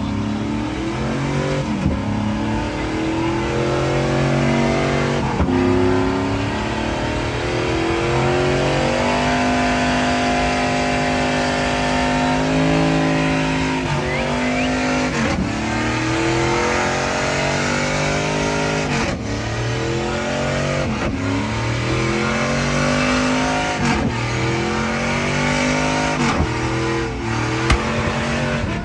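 Truck engine revved over and over, its pitch climbing and dropping back with a sharp break every couple of seconds, and held at a steady higher pitch for a few seconds near the middle.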